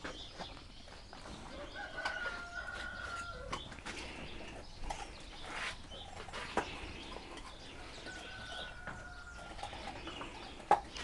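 Birds calling, with two long, held, whistle-like notes, over light rustling, and a few sharp knocks, the loudest near the end.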